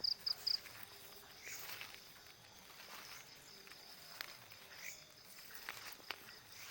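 Faint insects chirping in a night field: rapid pulsed chirps, about five a second, stop after half a second and leave a steady high trill. A few faint clicks and rustles come in the second half.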